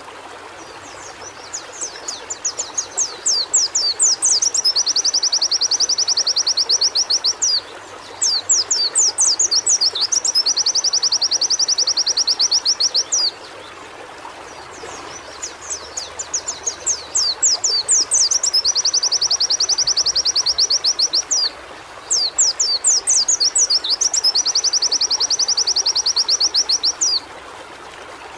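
Pleci (white-eye) singing: four song bouts, each a run of quick high chirps that runs into a long, very rapid canary-like trill lasting a few seconds. A steady hiss lies underneath.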